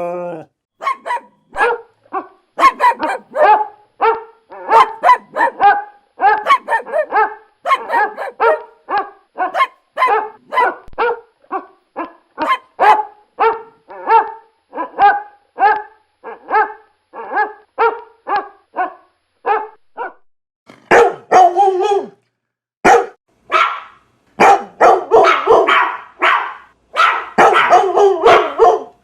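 A dog barking over and over in short, sharp barks, a few a second, with a brief pause about two-thirds through before the barking comes back faster and denser.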